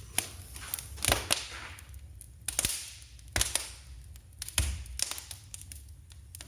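Wood fire crackling in a brick fireplace: irregular sharp pops and snaps, several of them loud, over a low steady rumble.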